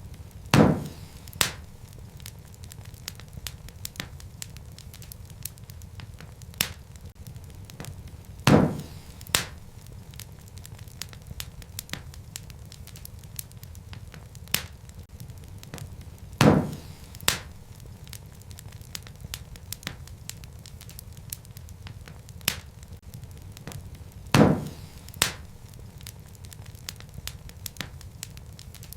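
Wood fire crackling in a fireplace: a low steady rumble of burning logs under frequent small pops and snaps. Louder paired pops recur about every eight seconds.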